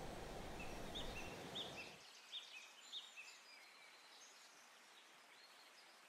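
Small birds chirping in short, high, repeated notes, over a low background track that cuts off about two seconds in; faint outdoor ambience after.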